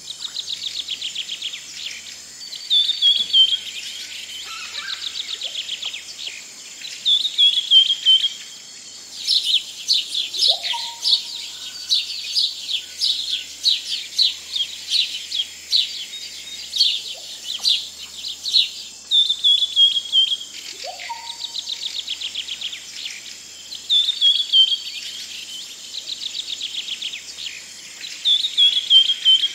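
Birds singing: short falling trilled phrases repeated every few seconds, a rapid run of chirping through the middle, and a low rising whistle about every ten seconds, over a steady high insect buzz.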